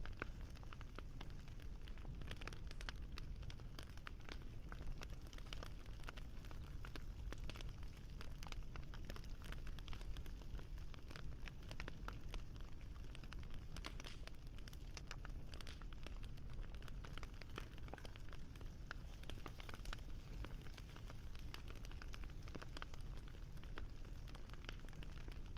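Wood fire crackling steadily, with frequent small pops and snaps over a low rumble.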